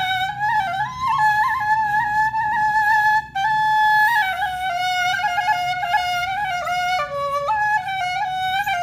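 Background music: a flute plays a single ornamented melody that steps up and down, with a brief break about three seconds in.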